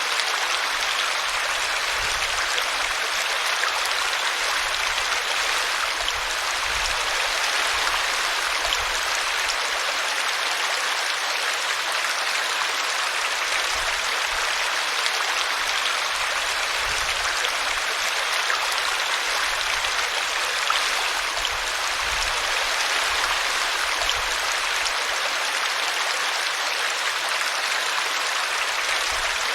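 Small brook flowing steadily, its water splashing over a tree root.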